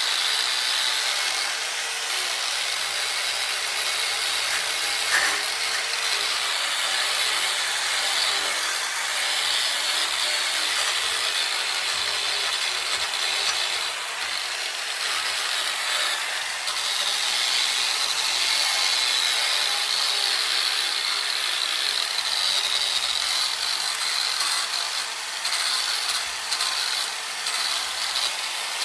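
Handheld power grinder with a coarse abrasive wheel stripping paint from a bicycle frame. It gives a steady, high grinding hiss, with small dips as the wheel is moved along the frame.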